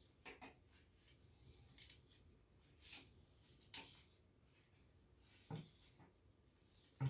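A piece of stiff cardboard scraping across the glass door of a cast-iron stove, lifting off the degreaser: about six short, faint scraping strokes, the last one the loudest.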